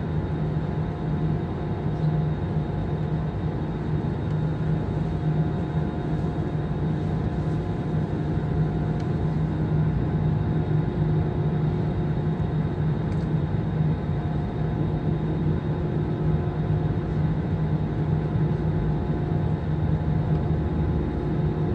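Airbus A320 airliner's jet engines at idle, heard inside the passenger cabin as a steady hum with several fixed tones, before the takeoff run.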